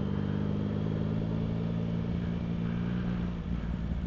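Motorcycle engine running at a steady note while riding, with a steady hiss of wind and road noise behind it. About three and a half seconds in, the engine note breaks and settles at a different pitch.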